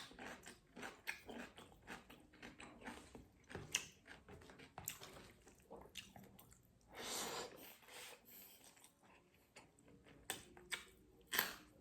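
Close-miked chewing and biting of fish with green chili sauce: many small wet mouth clicks and smacks, with a longer rustling stretch about seven seconds in.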